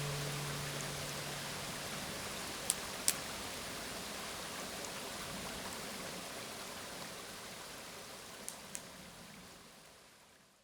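River water babbling steadily, fading out near the end. The last note of an acoustic guitar dies away in the first couple of seconds, and two pairs of sharp clicks come through, one about three seconds in and one near the end.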